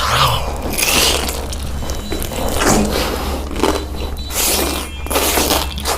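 Crunchy bites and chewing of food close to the microphone, in noisy bursts about once a second, over a steady low hum.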